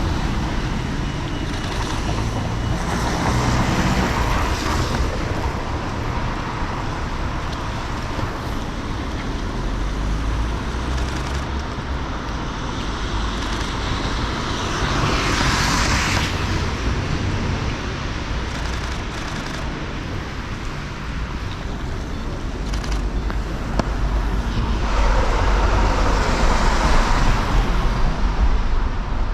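City street traffic: a steady rumble of vehicles, with three cars swelling past and fading, about three seconds in, around the middle and near the end.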